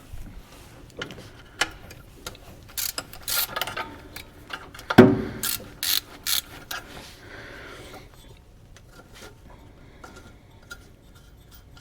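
Hand ratchet clicking and metal tools clinking while loosening the alternator bolts, with a loud clank about five seconds in; the clicking thins out over the last few seconds.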